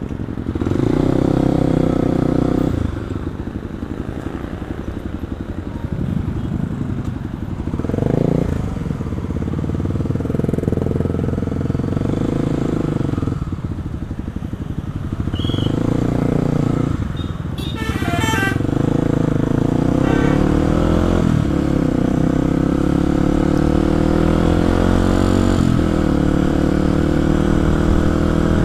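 Kawasaki KLX 250's single-cylinder four-stroke engine running under way, its note dropping and climbing again several times with the throttle.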